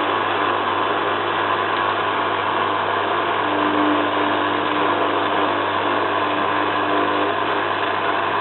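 Zanussi FLA1002W front-loading washing machine tumbling its drum at wash speed, with its motor giving a steady hum and a low whine. These are the slow tumbles before it ramps up to distribute speed for the spin.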